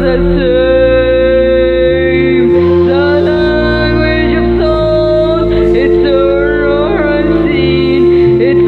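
A song: a woman's voice singing a sustained, gliding melody over instrumental accompaniment, with a steady held tone and a bass line that changes note every second or two.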